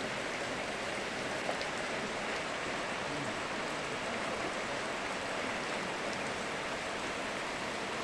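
Steady hiss of rain together with rushing river water, with no distinct events.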